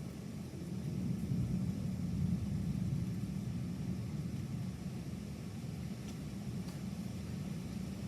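Distant thunder rumbling low, swelling about a second in and then slowly fading.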